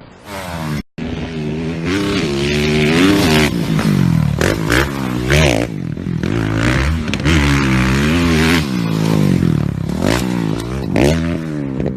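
Motocross bike engine revving up and down over and over, its pitch rising and falling as the throttle is opened and closed, with a brief dropout about a second in.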